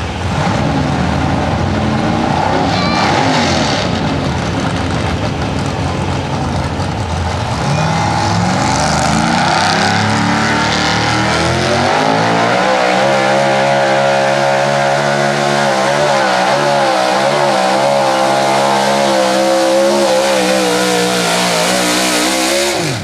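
A 4x4 pulling truck's engine at full throttle during a pull. Its pitch climbs over the first dozen seconds, then holds high with a slight waver, and it cuts off suddenly near the end as the throttle is let off.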